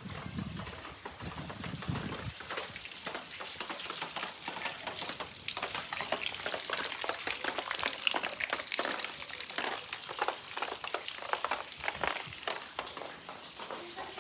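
Rain pattering and dripping: a dense, irregular crackle of drops over a steady hiss, getting busier a couple of seconds in.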